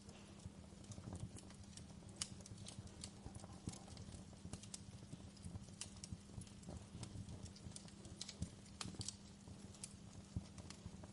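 Wood campfire crackling: irregular sharp snaps and pops, a few louder than the rest, over a low steady rumble of the burning.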